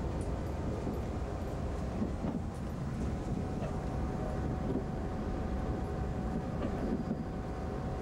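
381 series limited-express electric train running, heard from inside the passenger carriage: a steady rumble of wheels on rails with a few faint clicks.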